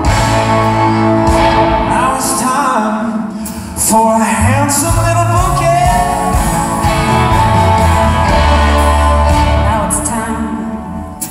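Live music with singing over instruments and a steady bass line; the sound drops briefly about four seconds in and fades down near the end.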